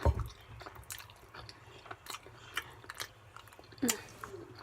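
A person chewing lasagna with open-mouthed smacking: scattered wet clicks and smacks, with a low thump right at the start and a louder smack about four seconds in.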